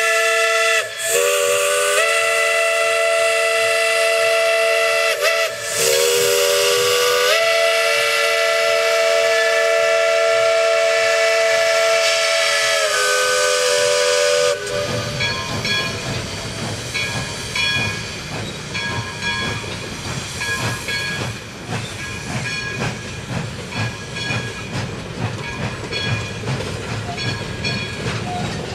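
A locomotive's multi-tone whistle sounds one long blast of about fourteen seconds, broken twice briefly, with its pitch stepping up and then down. It then cuts off, leaving the train's wheels rumbling and clacking over the rail joints.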